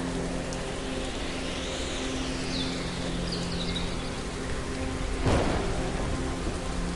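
Steady rain with a low sustained tone underneath, and a sharp crack of thunder a little past five seconds in.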